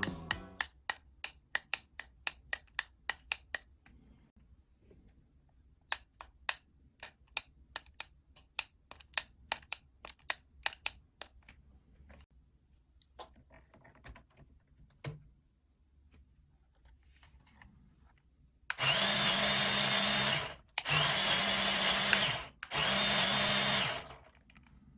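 Small electric drive motors and plastic gearing of a motorized CaDA Ferrari 488 brick model whirring in three bursts of about two seconds each near the end, a steady gear whine. Earlier comes a long string of light, sharp clicks, at about three a second for a while.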